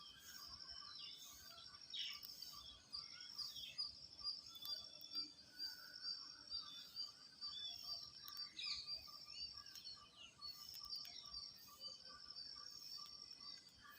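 Small birds chirping: a steady high-pitched twittering with many short, quick chirps over it.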